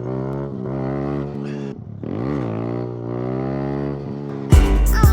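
Kawasaki Z125 Pro's single-cylinder engine revving up and down repeatedly, its pitch dropping and climbing again several times. A sudden loud low boom hits near the end.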